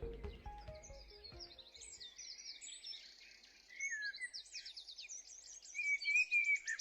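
Songbirds singing: many quick high chirps and trills, busier and louder from about four seconds in. Background music fades out during the first second or so.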